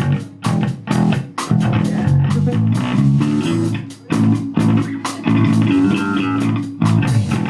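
Live pop punk band playing: electric guitar and bass guitar in a steady, loud rhythm of chords.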